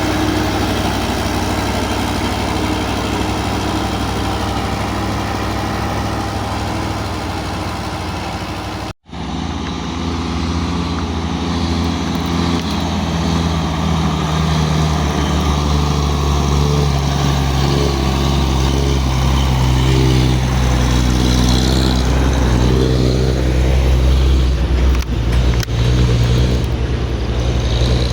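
Heavy truck's diesel engine running under load. The sound drops out for an instant about nine seconds in; after that the engine's pitch climbs steadily over several seconds as it pulls.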